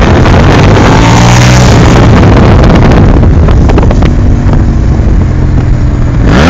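Suzuki SV1000S's 90-degree V-twin engine running through G&G aftermarket mufflers with a deep, low rumble. Near the end it revs up sharply.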